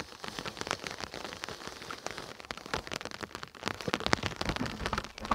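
Rain falling, a steady hiss with many irregular close drop hits.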